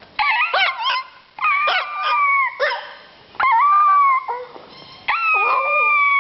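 Small puppy howling: a few short wavering yelps in the first second, then three long, high drawn-out howls of about a second each.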